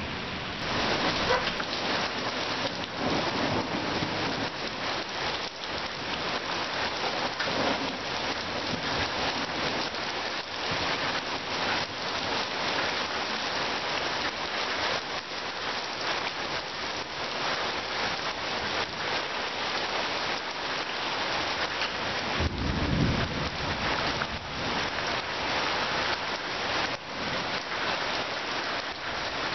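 Heavy rain pouring steadily, a dense hiss of splattering drops, with a brief low rumble about three-quarters of the way through.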